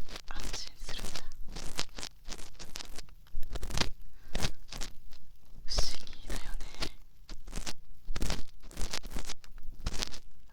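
Ear cleaning on a binaural dummy-head microphone: an ear pick scraping and scratching close inside the ear, in irregular crunchy strokes.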